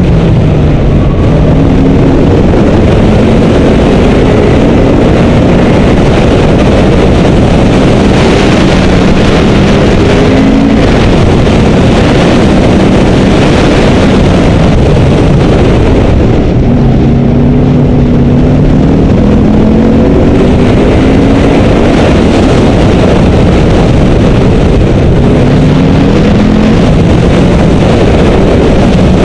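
Car engine pulling hard through an autocross course, its pitch climbing and dropping again and again as the driver accelerates, lifts and brakes between cones. It sits under a heavy, loud wash of wind and road noise.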